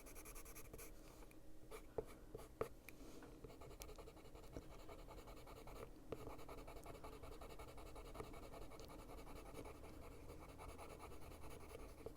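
Faint scratching of a Caran d'Ache Luminance coloured pencil rubbed over paper, blending and softening colours with the pale Buff Titanium shade. A couple of light ticks come about two seconds in.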